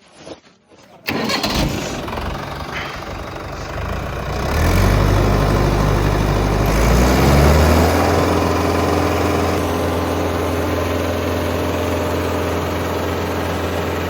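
Tractor diesel engine being started: it cranks from about a second in, catches a few seconds later, revs up briefly and settles into a steady idle.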